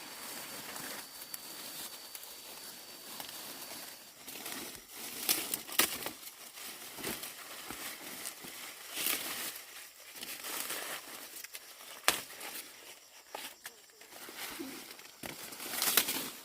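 Dry corn leaves and husks rustling and crinkling as ears of corn are snapped off the stalks by hand, with several sharp snaps spread through. A thin steady high tone runs under it and stops about four seconds in.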